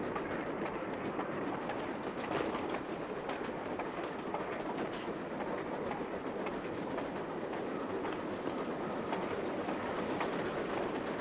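A moving passenger train rolling along the track: a steady rumble of the cars, with frequent clacks from the wheels running over the rails.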